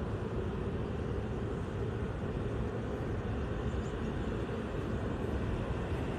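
Steady low outdoor rumble with no distinct events, the kind of background noise that wind on the microphone or distant traffic makes.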